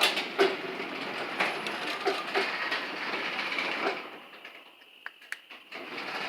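Sectional garage door rolling along its tracks on low-headroom brackets, rollers and hinges clattering. It stops about four seconds in, with a few clicks during the pause, and starts moving again near the end.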